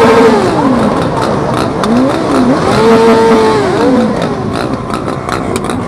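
Sport motorcycle engine revved hard twice. Its pitch falls away from a high held rev in the first second, then climbs about two seconds in, holds high for under a second and drops again, over the steady noise of other engines.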